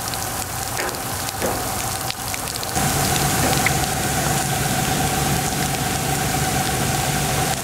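Rain falling, a steady hiss with scattered individual drop hits. About three seconds in it gets louder and a low steady hum joins it.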